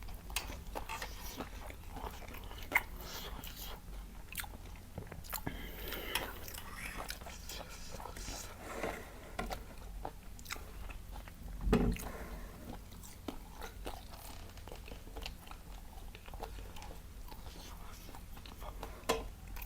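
Close-miked eating: biting and chewing with many small crisp crunches and crackles. One louder low thud comes about twelve seconds in.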